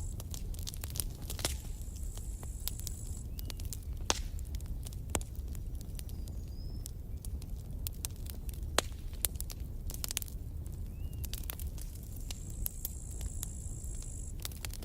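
Campfire burning: a steady low rumble of flame with sharp crackles and pops of burning wood at irregular intervals. A thin, steady high-pitched tone runs through the first few seconds and comes back near the end.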